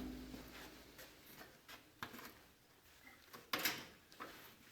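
A few faint, scattered clicks and light knocks, the loudest about three and a half seconds in, with near quiet between them.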